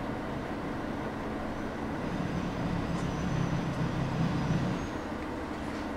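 Cabin noise of a KTR8000 diesel railcar creeping into a platform and stopping: a steady rumble, with a low drone that swells from about two seconds in and drops away near the end, and faint thin high squeals in the middle.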